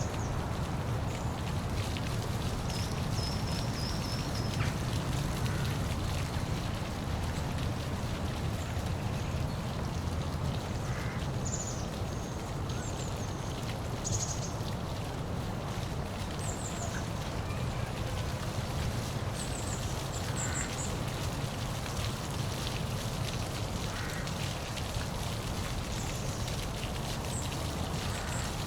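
Steady rush of a waterfall, with short high bird chirps dotted through it every few seconds.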